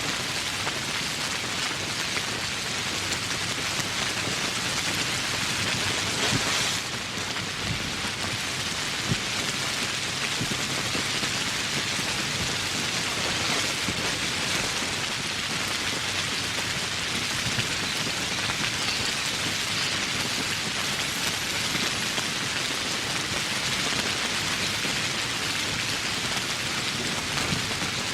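Steady heavy rain falling, an even dense hiss, swelling briefly about six seconds in.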